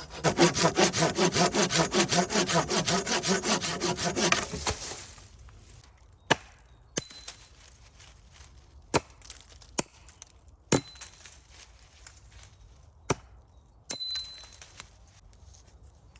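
A saw cutting wood in fast, even strokes for about five seconds, then stopping. After it come a handful of separate sharp knocks or snaps.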